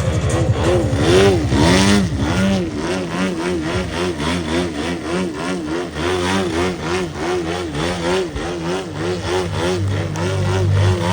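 Engine of a radio-controlled aerobatic plane running, its pitch rising and falling about twice a second.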